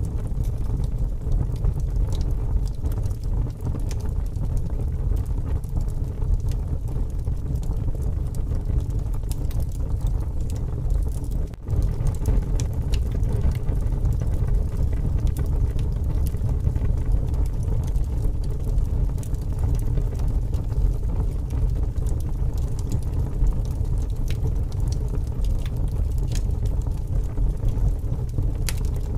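Wood fire burning with scattered crackles and pops over a steady low rumble of strong wind, dipping for an instant about eleven seconds in.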